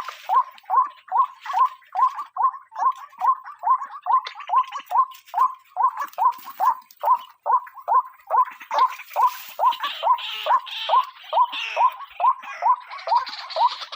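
Female white-breasted waterhen (ruak-ruak) calling: a fast, unbroken run of short notes that hook downward, about two and a half a second, with harsher, noisier calls over them near the middle and end.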